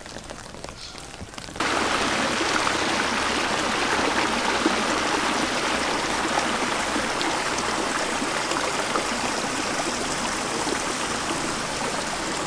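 Steady rushing water noise, a dense even hiss of falling or flowing water. It steps up sharply in level about one and a half seconds in and then holds steady.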